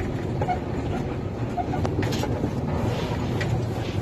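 Dump truck engine running, a steady low rumble with a few faint clicks.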